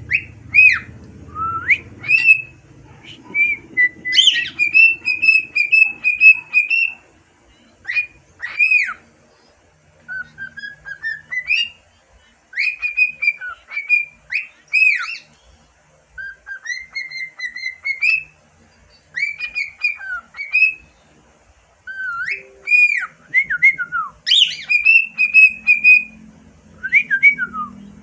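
Six-month-old cockatiel whistling its song: clear notes with rising and falling glides, in short phrases broken by brief pauses, somewhat off-key.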